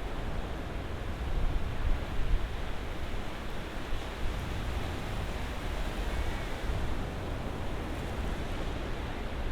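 Ocean surf washing ashore: a steady rushing noise with a deep rumble, swelling briefly louder about two seconds in.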